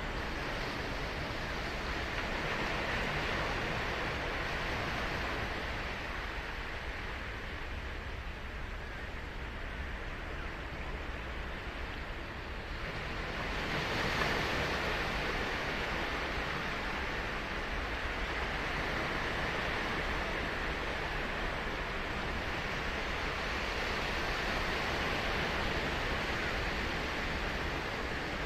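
Ocean surf breaking and washing up a beach in a steady wash that swells and fades, with a louder wave breaking about halfway through.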